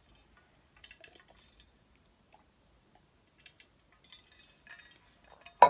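Faint scattered clicks and small wet mouth and handling noises of someone tasting a snack, with one sharp click near the end.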